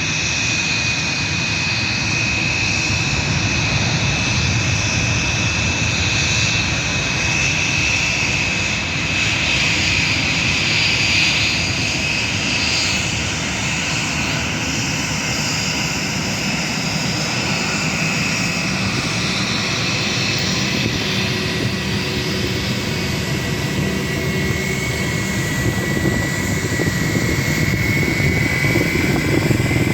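Airbus A320 jet engines running steadily: a high whine over a broad rushing noise, growing slightly louder near the end.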